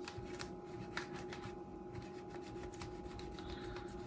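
Faint rubbing and scraping with many small scattered clicks as the inside of an opened cassette walkman is wiped clean, over a faint steady hum.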